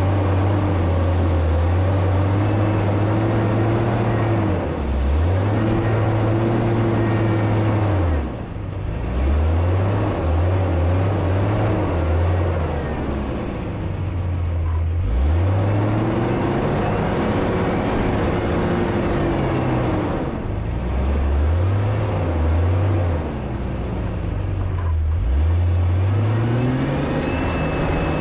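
Off-road 4x4's engine revving up and down over and over, its pitch climbing and dropping every few seconds, as happens when throttling through deep snow.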